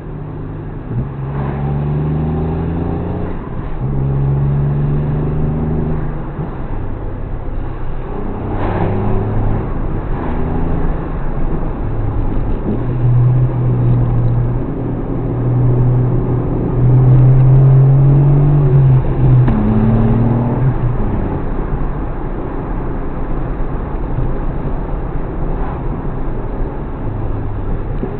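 Suzuki Alto Works HA36S's small turbocharged three-cylinder engine running under way, its note climbing and dropping back several times as the car accelerates and shifts.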